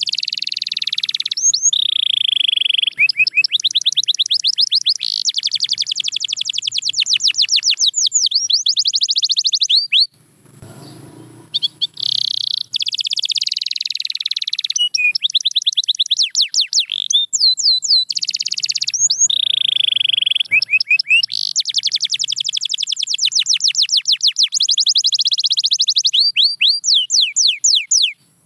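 Canary singing: long runs of rapid trills and fast repeated notes mixed with sweeping whistles, with a pause of about two seconds some ten seconds in before the song resumes.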